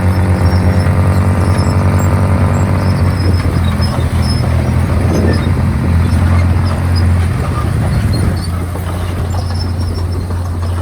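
Komatsu D51PX bulldozer's diesel engine running under load. Its steady pitched drone turns rougher and noisier after about three seconds and eases slightly near the end.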